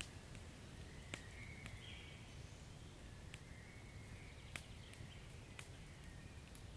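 Wood fire crackling softly: scattered sharp pops, roughly one a second, over a low steady rumble and faint hiss.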